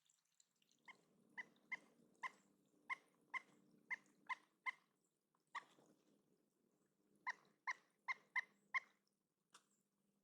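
Pileated woodpecker calling: a series of short, loud call notes, about two to three a second, in two runs with a pause of about two seconds in the middle.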